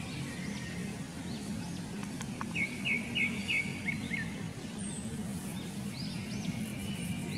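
Birds chirping over a steady low background hum: scattered short calls, with a run of four quick notes about two and a half seconds in and a few more arched chirps near the end.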